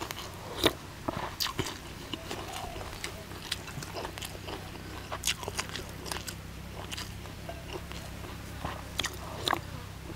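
Close-up eating sounds: a person biting and chewing mouthfuls of crispy-skinned duck larb, with irregular sharp crunches and wet mouth clicks.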